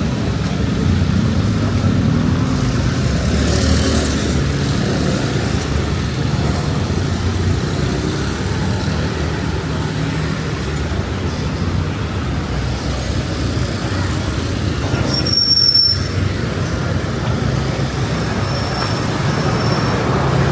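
Street ambience in strong wind: a steady low rumble of passing traffic mixed with wind buffeting the microphone.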